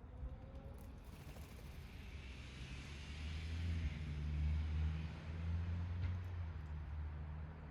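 A motor vehicle passing by: a low engine hum and a hiss that build to a peak about four to five seconds in, then fade away.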